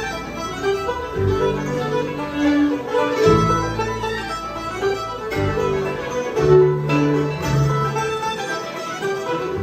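Bluegrass band playing an instrumental passage, with fiddle over guitar accompaniment.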